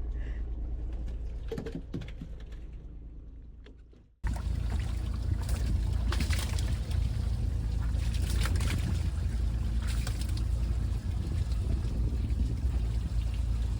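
A boat under way: a steady low engine rumble with wind and water noise. It fades out over the first few seconds, then cuts back in abruptly at full level about four seconds in.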